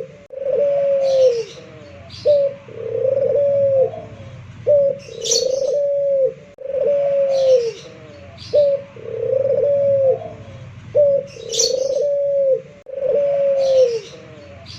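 A puter dove (domestic barbary dove) of the local pelung type cooing repeatedly: a short clipped note followed by long drawn-out coos that drop in pitch at the end, the phrase coming round about every six seconds. Fainter high chirps are heard between the coos.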